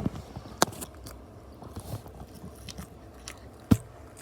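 Chewing food close to the microphone, with scattered wet mouth clicks, a sharp click about half a second in and a loud thump near the end.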